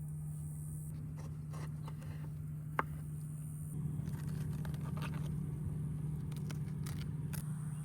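A steady low motor hum that gets louder about four seconds in, with scattered clicks and scrapes of handling and one sharp click near three seconds.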